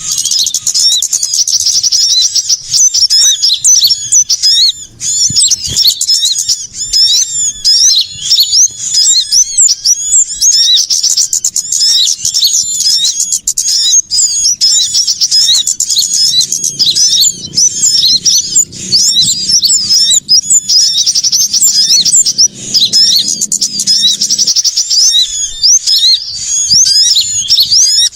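Loud, dense chattering of many small songbirds, a bird-lure recording mixing the calls of sunbirds and other small birds: fast, high, overlapping chirps and trills with no pause.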